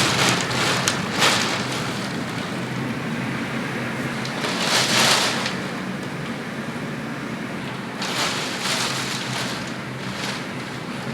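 Hurricane winds and heavy rain, a steady rush of noise that swells into stronger gusts several times: near the start, about five seconds in, and again around eight to nine seconds in.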